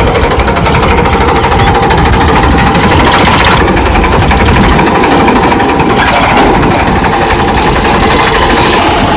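Tractor diesel engine running loud and close, a steady fast clatter of firing strokes.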